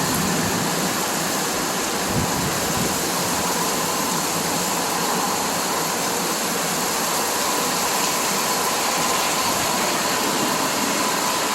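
Heavy rain pouring down in a storm: a steady, even hiss of falling water that holds unchanged throughout.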